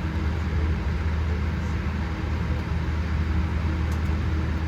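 Steady cabin noise inside a Boeing 787-8 airliner on the ground: a low hum under a rush of air, holding level with no change in pitch.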